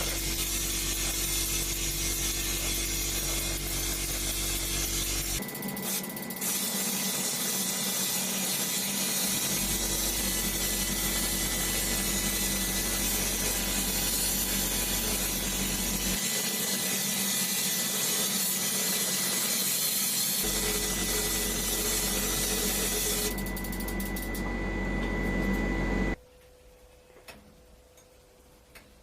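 A small power tool running steadily with a hissing, humming tone, its sound changing abruptly a few times. It stops about 26 seconds in, leaving a quiet background.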